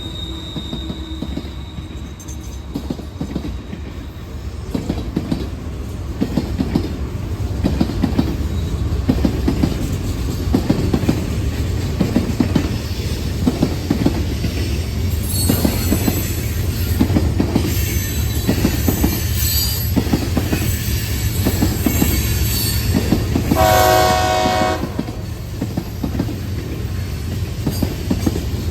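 CSX freight train rolling past, its wheels clicking rhythmically over the rail joints, with high squealing from the wheels. A short locomotive horn blast about three-quarters of the way through.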